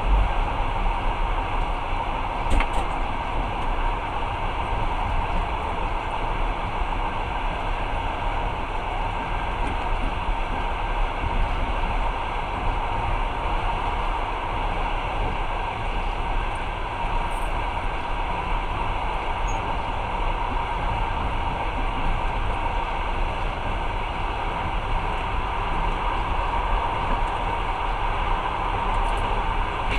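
Passenger train running at speed, heard from inside the carriage: a steady rushing rumble of wheels on rails with a faint steady whine, and a single knock about two and a half seconds in.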